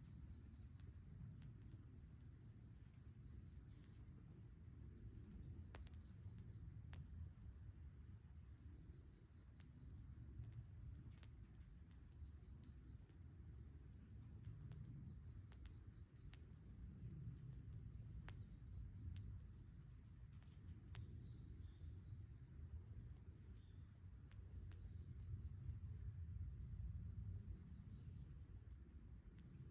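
Insects chirping: a steady high trill with short repeated pulse trains and higher chirps every second or two, with a faint low rumble underneath.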